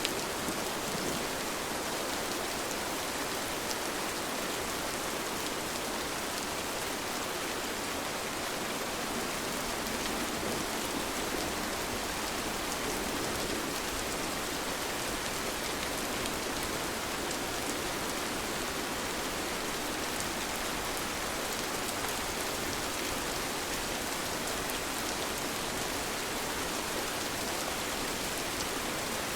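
Gentle, steady rain: an even hiss of many falling drops, with no thunder.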